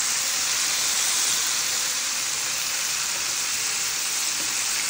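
Breaded chicken pieces frying in hot oil in a stainless steel pan: a steady, even sizzle.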